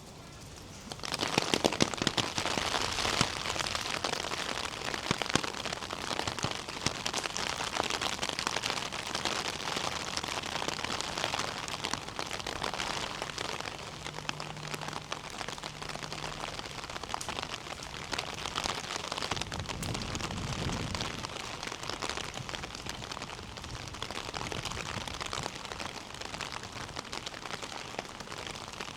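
Rain falling hard close to the microphone, a dense steady hiss of countless drop hits that comes up suddenly about a second in. A brief low rumble sounds under it about twenty seconds in.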